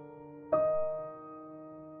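Slow, soft piano background music: a chord is struck about half a second in and rings on, fading.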